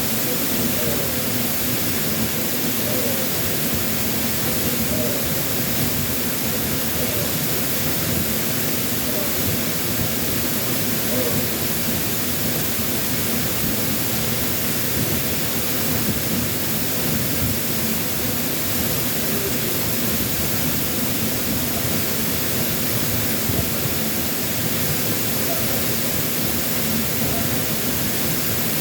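Waterfall pouring heavily, a loud steady rush of water, its flow swollen by typhoon rain. A faint human voice is barely heard beneath it.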